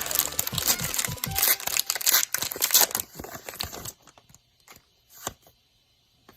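Plastic-foil Pokémon card packaging being torn open and crinkled for about four seconds, then a few light clicks.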